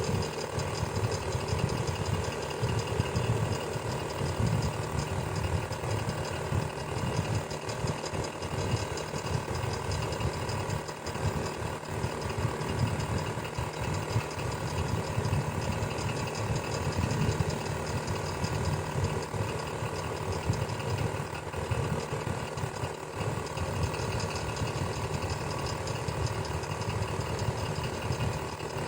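Electric fan running steadily: a constant whir of the blades with a steady motor hum underneath.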